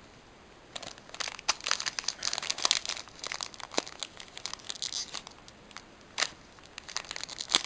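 Foil booster pack wrapper crinkling and tearing as it is opened by hand: a rapid run of crackles starting about a second in, with a short lull near the end.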